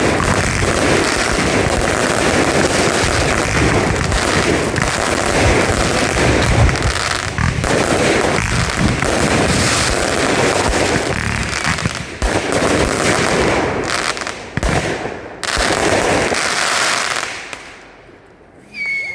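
Fireworks display: a dense, continuous barrage of bursts and crackling that thins out into a few separate bangs and dies away about two seconds before the end.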